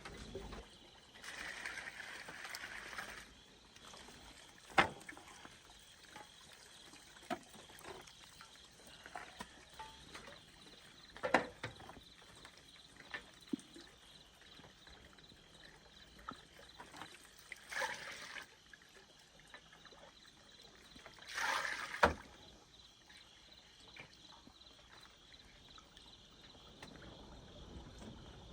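Water being poured and splashed now and then, in a few short swells, with occasional sharp knocks of wood or a container in between.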